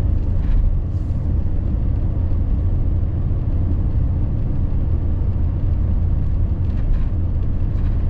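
Steady low rumble of road and engine noise inside the cab of a 2020 Chevy Silverado 3500 dually diesel pickup driving at speed.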